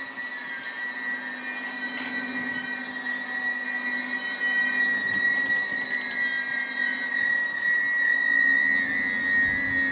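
Passenger coaches of an arriving express train rolling slowly past, with a steady high-pitched squeal from the wheels and brakes that grows louder near the end as the train slows to a stop.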